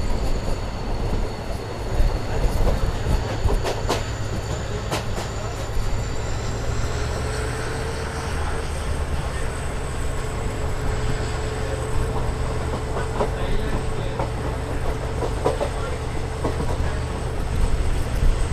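Passenger train running, heard from on board: steady rumble of the coach with wheels clicking over rail joints, and a steady high whine that rises slightly about seven seconds in. A few sharp knocks come in the first five seconds.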